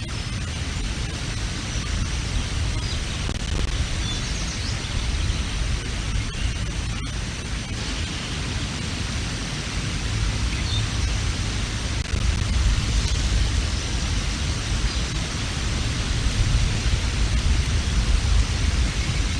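Strong wind buffeting the outdoor nest-camera microphone: a loud, rumbling rush of noise that swells in gusts, louder in the second half. A few faint high chirps come through now and then.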